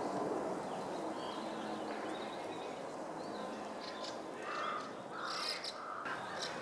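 White-cheeked starlings calling with harsh, grating calls, several in a row about two-thirds of the way through, among faint high chirps over a steady background hiss.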